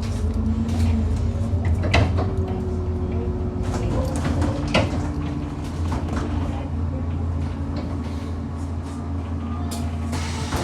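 Bus interior: a steady engine drone with a faint whine. Over it come sharp knocks and rattles from the body as the bus goes over potholes, two of them loud, about two seconds in and near the five-second mark.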